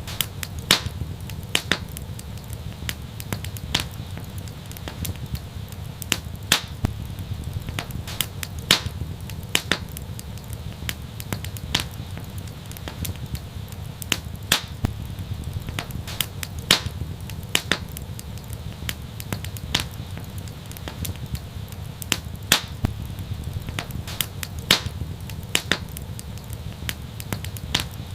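Wood fire crackling and popping: irregular sharp snaps a few times a second over a steady low rumble of burning.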